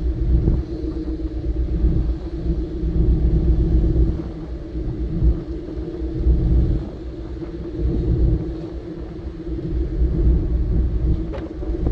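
Steady droning hum of a car ferry under way, with a heavy low rumble that swells and fades every second or two.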